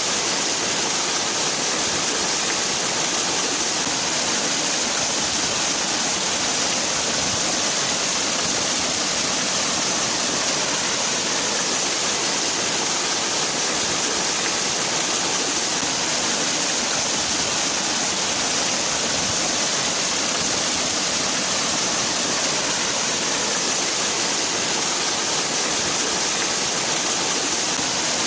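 Waterfall: water falling and splashing in a steady, unbroken rush with a hissy top.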